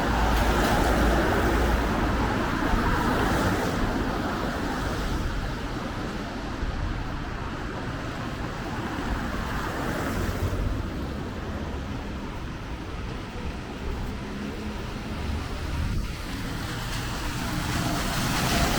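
City street traffic: cars passing on wet asphalt with a steady rushing tyre hiss, louder near the start and again at the end.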